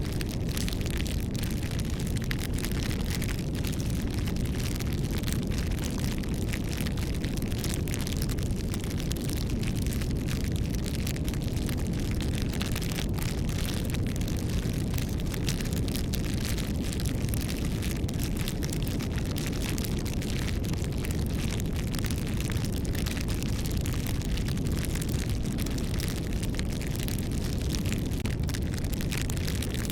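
Wood bonfire crackling: a steady low rush of burning with many small sharp pops and snaps.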